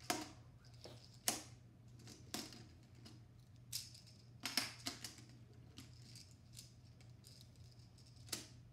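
Plastic magnetic building tiles clicking and clacking as they are handled and snapped together, about eight sharp clicks at irregular intervals, with a cluster around the middle.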